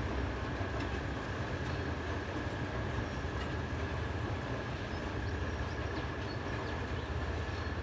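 Passenger train rolling along a trestle viaduct: a steady low rumble of the coaches on the rails, with a thin, steady high tone held over it.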